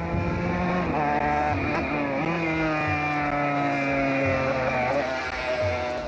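Rally car engine running hard on a timed stage, its note stepping and bending in pitch several times, with a long slow fall in the middle.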